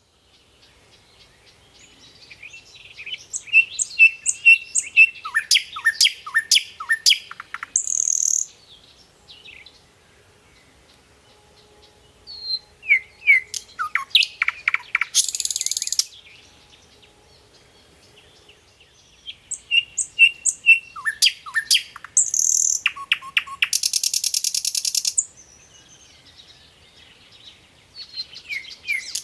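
A songbird singing in repeated bouts, about every eight seconds. Each bout is a run of high chirps and quick downward-sweeping whistles that ends in a buzzy, rapid rattle.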